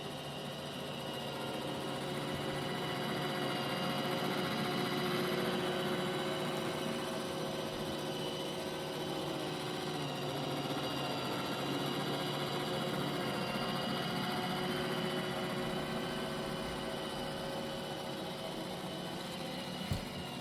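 iRobot Roomba i7+ robot vacuum running, a steady whir of its vacuum motor and brushes that swells a little in loudness and then eases, with a single short knock near the end.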